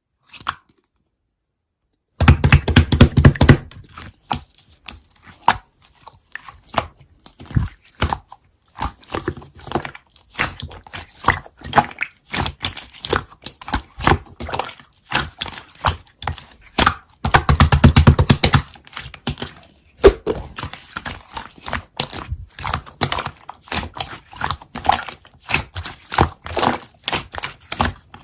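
Slime being squished and pressed by hand, giving a dense run of crackles and small pops. It starts after about two seconds, with two louder, fuller squelching stretches, one near the start and one about halfway.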